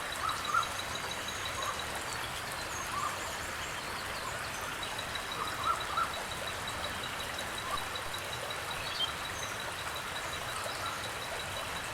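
Outdoor wetland ambience: a steady even hiss with several short, sharp bird calls scattered through it, and a faint fast high ticking in the background.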